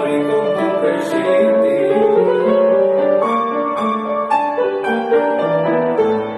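Piano playing an instrumental passage of a folk-song arrangement, with no singing.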